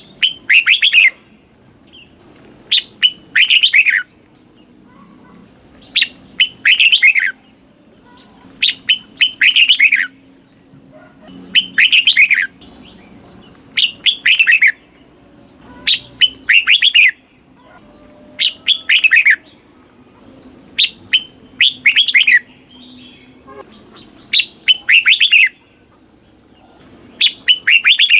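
Red-whiskered bulbul singing: short, loud phrases of quick falling whistled notes, repeated about every two to three seconds.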